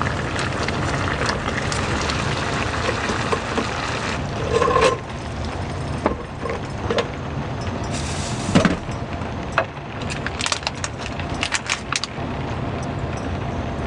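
Heavy rain falling steadily, with scattered knocks and clicks of things being handled. The loudest knock comes just past halfway, and a quick run of clicks follows a couple of seconds later.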